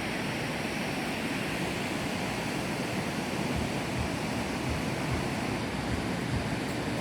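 Steady rushing of sea surf at the shore, with wind buffeting the microphone in low, uneven rumbles.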